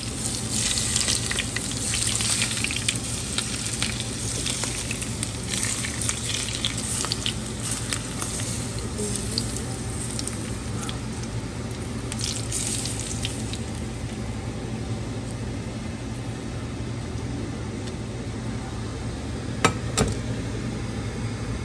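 Food frying in a hot pan: steady sizzling with dense crackles, busiest in the first half, over a steady low hum. Two sharp clicks come near the end.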